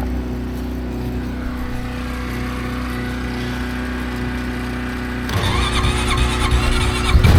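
A steady engine hum runs first, then about five seconds in the four-wheeler's engine is cranked and catches, running louder near the end. The quad's battery is dead, so it is being jump-started.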